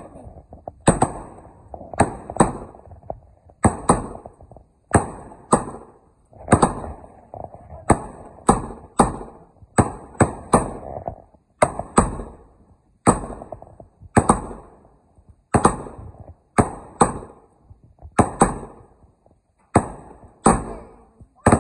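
Repeated sharp knocks, uneven, one or two a second, each with a short ring after it.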